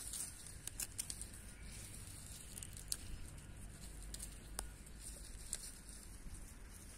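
Scattered light crackles and rustles of dry plant matter being disturbed, with a few sharper snaps, over a faint low rumble.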